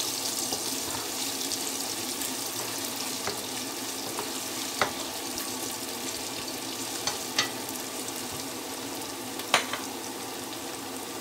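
Sliced onions and ginger-garlic paste sizzling in hot oil in a pot while being stirred with a wooden spatula, which knocks sharply against the pot three times. This is the sauté that cooks off the raw taste of the ginger-garlic paste.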